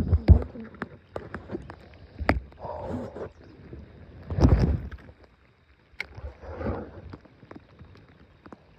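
Handling noises in a small boat: scattered knocks and thumps against the boat, the loudest about four and a half seconds in, with short rustling between them.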